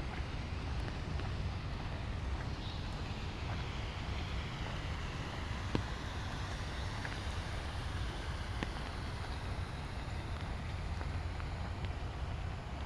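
Street ambience in light rain: a steady low rumble and hiss, with a vehicle's tyres swishing past on wet pavement, swelling and fading over several seconds, and a few faint drop ticks.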